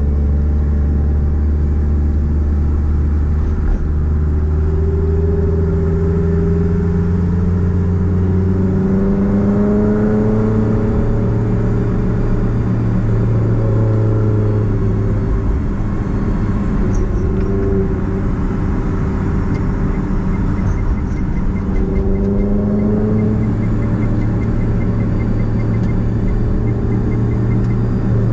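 Nissan Platina's four-cylinder engine through a straight-pipe exhaust while driving, its note rising in pitch several times as the car accelerates and then easing back over a steady low drone.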